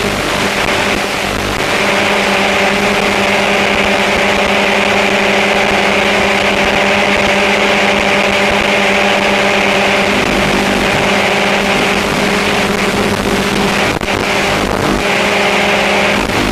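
Remote-controlled aircraft's electric motors and propellers running steadily in flight, giving a constant hum with a high whine above it that wavers slightly a few times.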